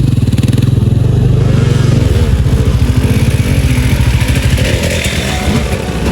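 Dirt bike engine running hard under throttle, its note changing about two seconds in.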